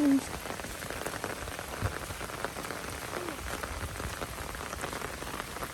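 Steady rain falling, with many individual drop hits.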